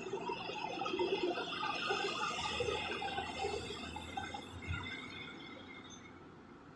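Heavy excavator at work, giving off a jumble of short metallic squeaks and clinks over a faint low rumble, fading toward the end.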